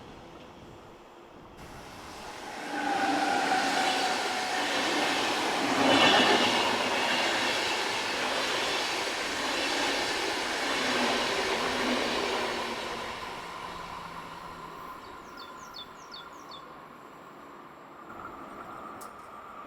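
A train passing: the noise swells about three seconds in, is loudest around six seconds, and fades away over the last several seconds.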